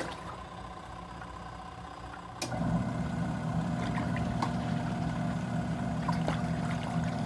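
Pyle PUCWM11 portable top-loading washer running, a steady motor hum with water churning in the tub. It is quieter for the first couple of seconds, then grows louder after a click about two and a half seconds in.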